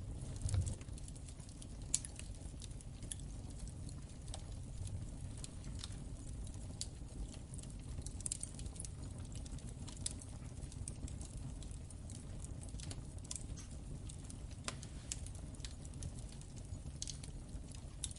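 Wood fire in a fireplace crackling: irregular sharp pops and snaps over a low steady rumble of the flames, with a soft low thump about half a second in.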